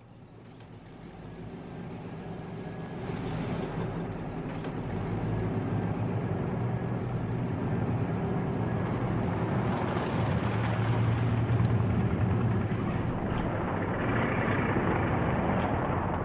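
Motor vehicle engines running, growing louder over the first four or five seconds and then holding steady.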